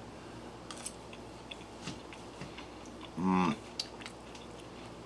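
A person chewing a mouthful of rehydrated scallop fried rice, with faint scattered clicks and a short hummed sound of approval about three seconds in.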